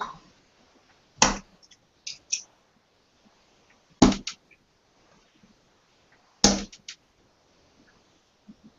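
Three darts striking a dartboard one after another, about two and a half seconds apart, each thud followed by a few light clicks.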